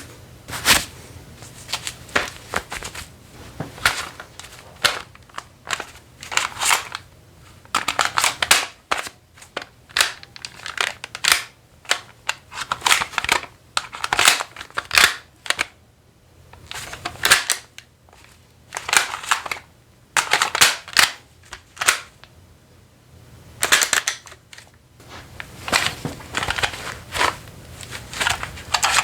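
Airsoft guns being reloaded by hand: irregular runs of sharp clicks, snaps and rattles, such as magazines seating and slides or bolts working, with short pauses between them.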